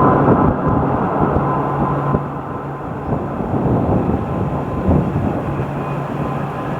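Train running close by: loud, steady noise with a low hum and a fainter higher tone held throughout.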